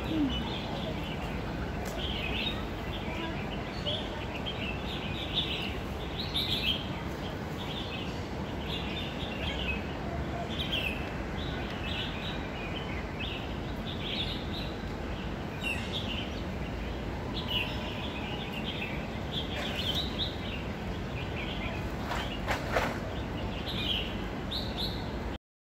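Small birds chirping over and over in the trees, with short high calls over a steady low hum of city background noise. The sound cuts off suddenly near the end.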